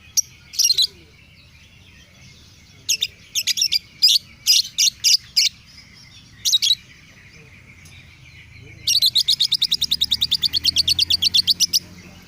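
Lovebird chirping: short, sharp, high chirps in scattered groups, then, about three-quarters of the way in, a rapid run of about nine chirps a second lasting some three seconds.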